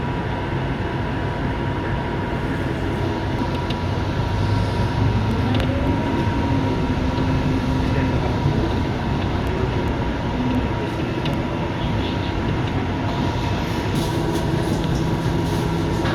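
Inside a moving Scania K230UB city bus: the diesel engine and drivetrain running under steady road rumble, with a faint steady whine. The engine note rises and falls in the middle as the bus changes speed.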